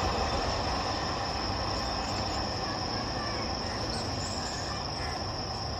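Freight train of BTPN oil tank wagons rumbling on the rails as it moves away, fading slowly. A steady high-pitched chirring of insects runs over it.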